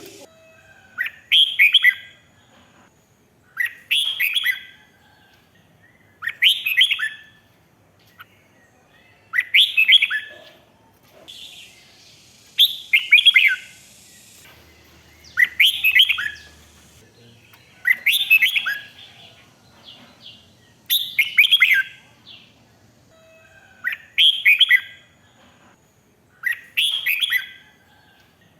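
Red-whiskered bulbul singing: short, bright warbled phrases repeated about every three seconds, about ten in all, with short pauses between.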